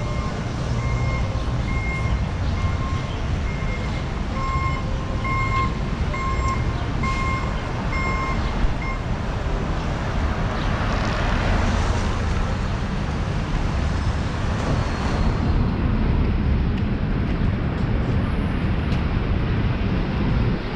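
Street traffic rumble with a vehicle's reversing alarm beeping steadily, about once a second, until it stops about nine seconds in. A swell of road noise rises and fades around the middle.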